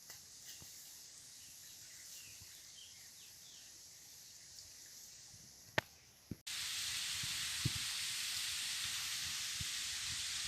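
Quiet outdoor ambience with a few faint high chirps and two sharp clicks. About two-thirds of the way in, it cuts abruptly to a louder steady hiss of natural noise.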